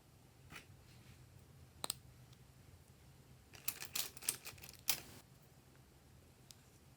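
Glossy slime being worked by hand, giving off sharp clicks and pops: a double click about two seconds in, then a cluster of crackling pops between about three and a half and five seconds.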